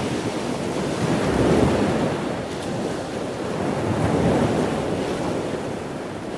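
Rushing water noise like ocean surf, swelling and easing twice.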